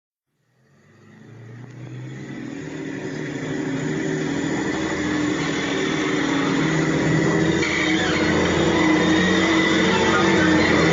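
Heavy vehicle engine running, fading in from silence and growing steadily louder over several seconds: a tank engine sound effect opening a heavy metal track.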